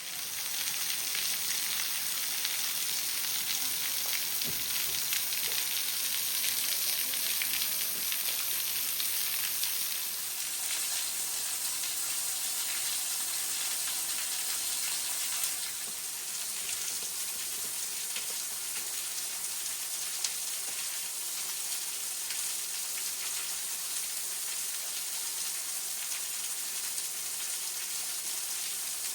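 Waterfall splashing onto rock: a steady rushing hiss that drops slightly in level about ten seconds in and again about fifteen seconds in.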